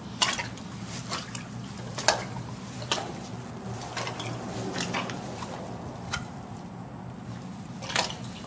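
Footsteps wading through a shallow creek, boots splashing and sloshing in the water about once a second.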